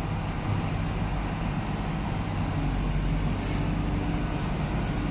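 Liugong 921F excavator's diesel engine running steadily, with a low even hum.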